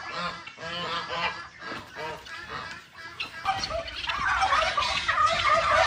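A flock of domestic fowl calling: short, repeated honking calls that thicken into a dense, overlapping clamour about three and a half seconds in.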